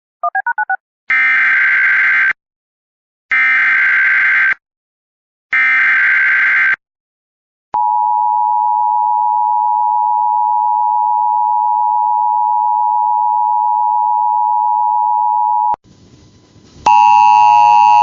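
NOAA Weather Radio emergency alert: three identical buzzy digital data bursts of the SAME header, each about a second long, then the steady 1050 Hz warning alarm tone for about eight seconds. Near the end a loud chord of steady tones starts, just before the watch announcement.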